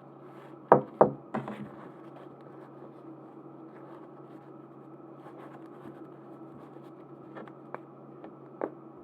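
Two sharp knocks about a second in, then a smaller clatter and a few light taps near the end, over a steady background hiss: small items being handled and set down on a table.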